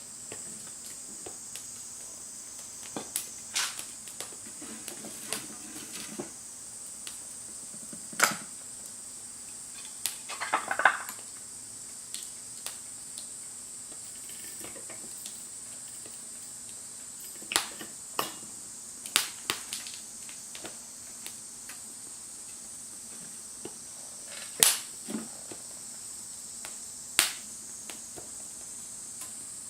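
Scattered sharp crackles and pops of a wood fire burning in a Firebox camp stove, with a brief cluster of rustling around ten seconds in. Under them a steady high-pitched insect drone, like crickets, runs on.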